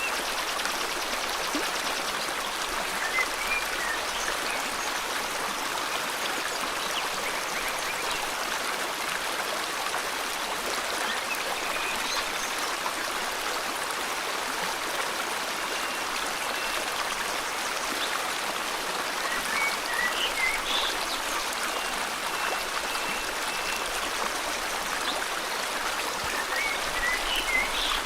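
Steady rush of flowing river water, with occasional short bird chirps and thin whistled notes over it now and then.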